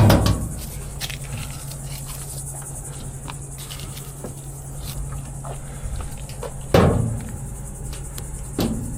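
Three heavy thuds with a short rattle, one right at the start, one about seven seconds in and a smaller one near the end, over the steady high chirring of insects such as crickets and a low hum.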